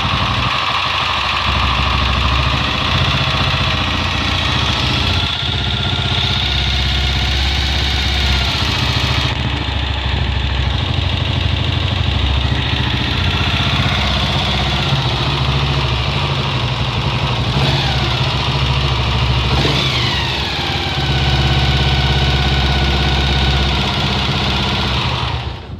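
Honda XLR motorcycle's single-cylinder engine running at idle, carrying the strange engine noise the owner is trying to track down. The pitch rises and falls briefly a little past the middle, it runs a bit louder for a few seconds, and then the engine is switched off just before the end.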